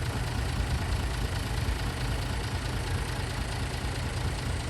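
A dump truck's engine idling steadily.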